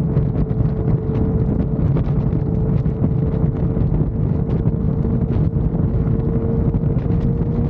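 Motorcycle running at highway speed with heavy wind buffeting on the microphone. The engine drone is steady and rises slightly in pitch toward the end.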